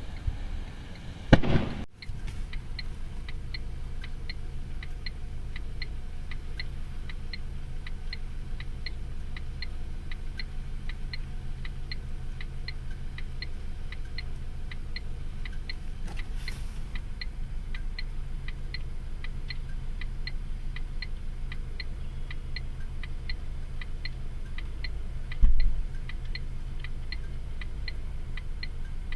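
Steady, evenly spaced ticking at nearly two a second over a low continuous rumble, with a loud thump about a second and a half in and another near the end.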